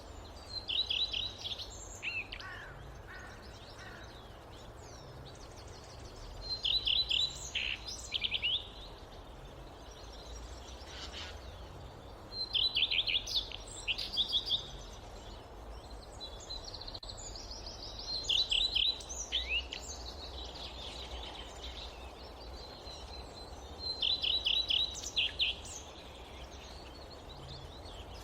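A songbird singing a short phrase of quick, high notes, repeated about every six seconds, over a steady low rumble of forest ambience.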